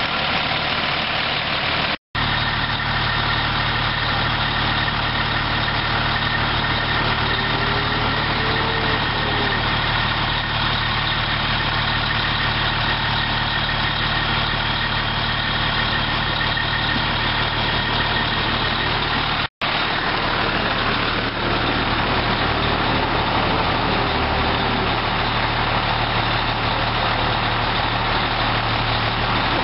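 Fire truck engine running with a steady, even drone, broken by two brief cuts to silence: one about two seconds in and one a little past halfway.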